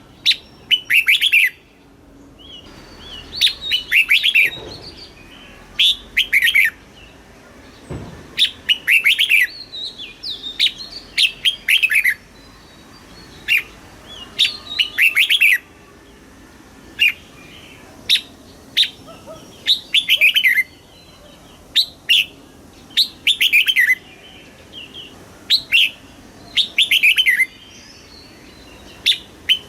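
Red-whiskered bulbul singing: short, bright, bubbling song phrases of a few quick notes, repeated every second or two with brief pauses between them.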